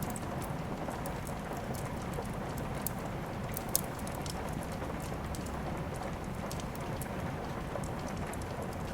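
Steady rain hiss mixed with a wood fire crackling: many small sharp pops scattered through, with one louder pop a little under four seconds in.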